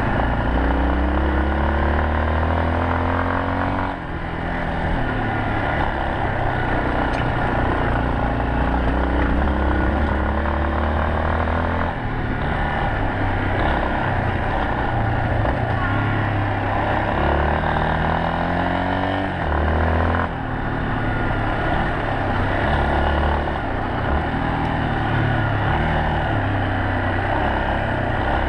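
Yamaha Serow 250's single-cylinder four-stroke engine pulling the bike along, its pitch climbing and then dropping back several times, with breaks about 4, 12 and 20 seconds in as the rider shifts or rolls off the throttle.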